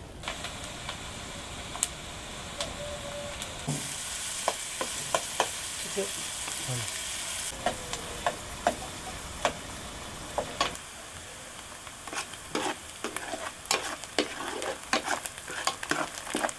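Food frying and sizzling in a cooking pan while it is stirred, with many short sharp clicks and knocks of the utensil against the pan. The sizzle grows louder and brighter about four seconds in, then settles back a few seconds later.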